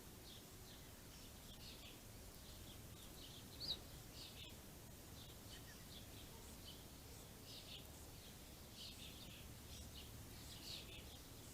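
Small songbirds chirping faintly and often, short high notes scattered throughout, one louder chirp about three and a half seconds in, over a steady low background rumble.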